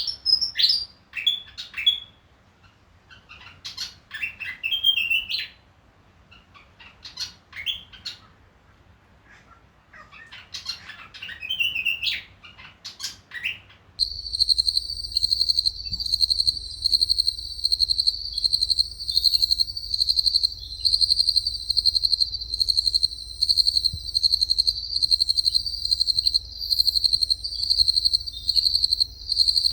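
Willie wagtail calling: quick, sharp chirping phrases of a second or two, separated by short pauses. About halfway through, this cuts off abruptly and gives way to a steady, pulsing, high-pitched insect trill.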